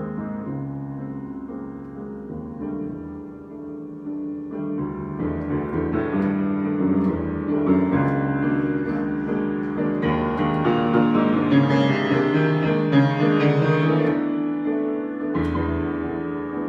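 Solo piano improvisation: sustained chords that swell to their loudest past the middle and ease off near the end.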